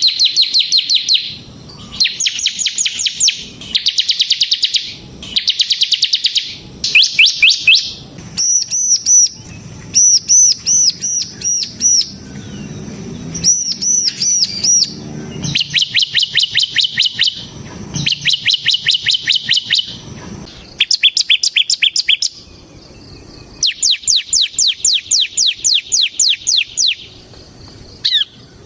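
Bar-winged prinia (ciblek semi) singing loudly in its rapid 'ngebren' style: bouts of fast, high trilled notes a second or two long, broken by short pauses, with a run of looping whistled notes about halfway through.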